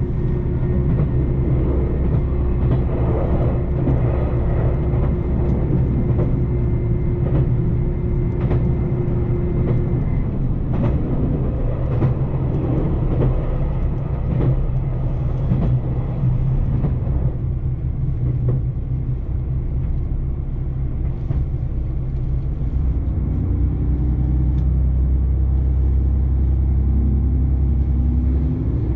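JR Shikoku 2700-series diesel railcar running along the line, a steady low engine and running drone with a thin steady whine through the first ten seconds or so and scattered clicks of wheels over rail joints.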